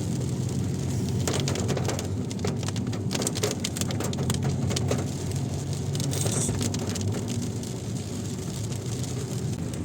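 Rain hitting a moving car, heard from inside as many sharp clicks of drops, thickest in the first half, over a steady low drone of engine and road noise.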